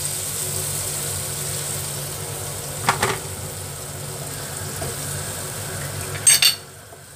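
Pork spareribs sizzling in their sauce in a nonstick frying pan, a steady frying hiss. There is a short clatter about three seconds in and a couple of sharp clicks near the end, after which the sound goes much quieter.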